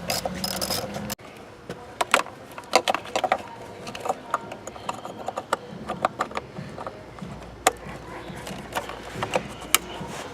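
Hand tools clicking and knocking against metal engine parts: a run of irregular sharp clicks and knocks. The background noise drops off suddenly about a second in.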